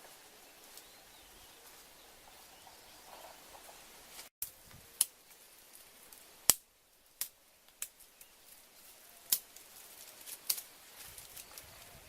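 A faint steady hiss, then a string of sharp, irregular clicks or snaps from about four seconds in, the loudest about halfway through.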